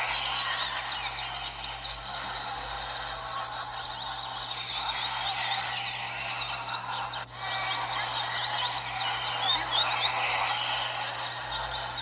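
Many double-collared seedeaters (coleiros) singing at once as in a contest circle: a dense, continuous chorus of overlapping quick chirps and trills, with a brief drop about seven seconds in.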